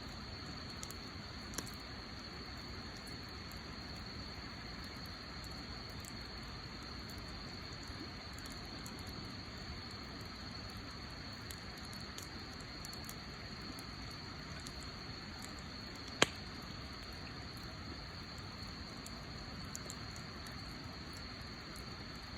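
Wood fire burning with a low steady rustle and scattered small crackles, and one sharp pop about sixteen seconds in. A thin steady high tone, like an insect, runs underneath.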